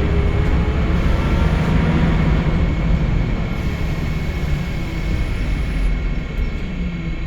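Scania L94UB Wright Solar single-decker bus heard from on board while under way: its diesel engine gives a steady drone under road and body noise, easing off a little near the end.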